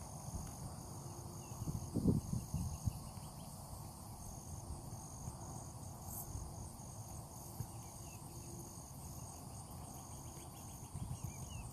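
Crickets chirping in a steady run of short, high pulses, over a low rumble, with a low thump about two seconds in.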